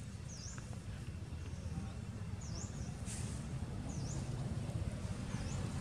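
Outdoor ambience: a steady low rumble that grows slightly louder toward the end, with a bird repeating a short dipping whistle four times, about every second and a half.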